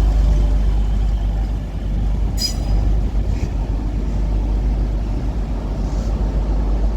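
Double Class 185 diesel multiple unit pulling into the platform, a steady low engine and wheel rumble as it slows to stop. A brief high-pitched sound cuts in about two and a half seconds in, with a fainter one about a second later.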